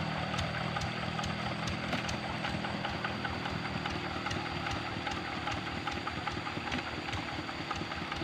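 Kubota RD65 single-cylinder diesel engine of a walk-behind tractor running steadily with an even, repeating diesel knock.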